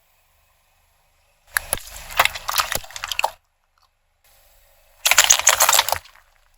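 Brittle objects cracking and crunching as they are crushed under a car tyre, in two bursts of rapid crackles, the second shorter and louder.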